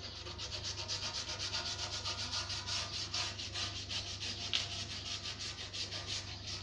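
Rapid back-and-forth scraping by hand, about six even strokes a second, kept up steadily.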